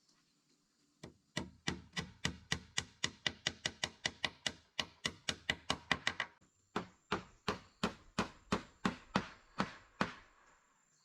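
A run of sharp, regular chopping strikes, about five a second, with a short pause just past the middle. Then a slower run of about a dozen strikes stops shortly before the end.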